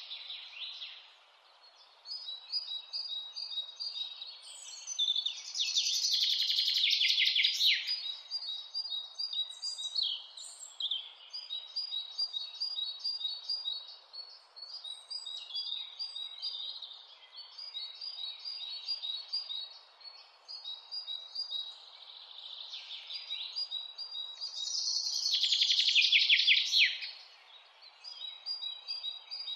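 Wild mountain birds singing: many short, high chirps repeated over and over, with a louder rapid trill lasting a couple of seconds that comes twice, about six seconds in and again near the end, over a faint steady hiss.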